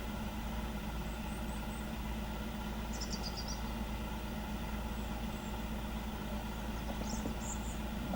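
Vehicle engine idling steadily, a constant low hum, with a few short bird chirps about three seconds in and near the end.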